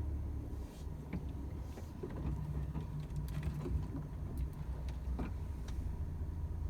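Volvo FH 500 truck's 13-litre inline-six diesel running at a steady cruise, heard as a low drone inside the cab, with scattered light clicks and knocks through it.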